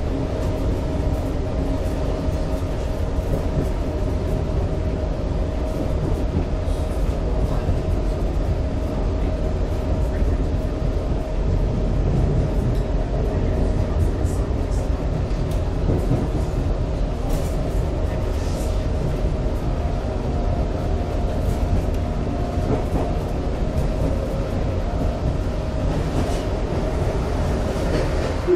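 Suburban passenger train running steadily, heard from inside the driver's cab: a continuous low rumble with a constant hum and scattered light clicks from the wheels and track.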